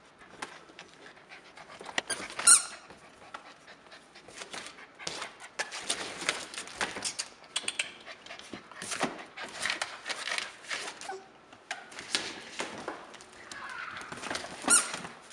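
Yellow Labrador Retriever puppies moving and scuffling about, with rapid small clicks and rustles, and one short high-pitched squeak about two and a half seconds in.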